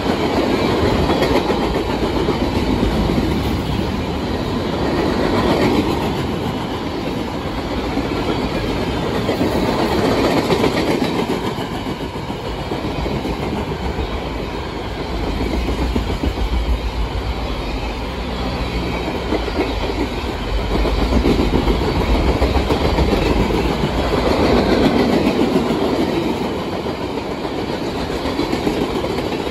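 Freight cars of a fast-moving mixed train rolling past close by, steel wheels on rail: a loud, steady rolling sound that swells and eases every few seconds as the cars go by.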